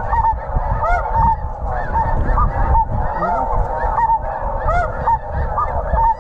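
Many snow geese calling at once: a dense chorus of short, high, yelping honks overlapping without a break. Wind rumbles on the microphone underneath.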